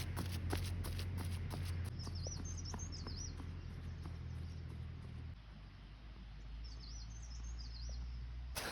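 Birds singing two short, high warbling phrases, one about two seconds in and another near the seven-second mark, over a low steady rumble and scattered light clicks.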